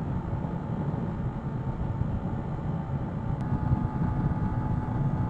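125cc motorcycle engine running steadily at road speed, with wind and road noise on the rider's microphone.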